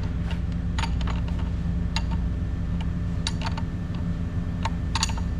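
Hand tools clinking against a battery cable terminal while the connection is tightened: a scatter of short, sharp metal clicks at irregular intervals. A steady low hum runs underneath.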